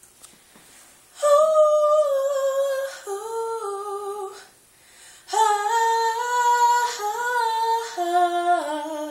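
A woman singing a wordless melody unaccompanied, in two long phrases of held notes that step up and down in pitch, with a short pause between them.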